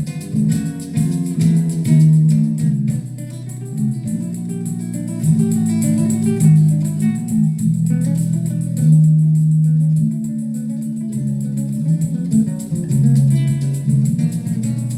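Recorded music with guitar over a strong bass line, played back through a Yamaha A-30D stereo amplifier and loudspeakers.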